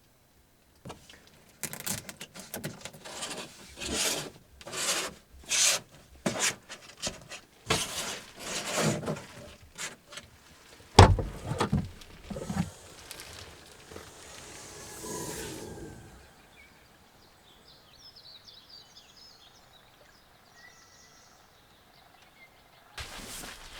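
Wood rubbing, scraping and knocking in quick, irregular strokes, with a heavy thump about eleven seconds in, then a softer rustle before it goes faint.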